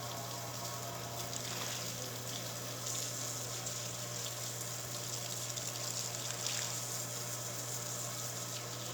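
Steady rushing noise of a vehicle on the move, with a constant low hum underneath.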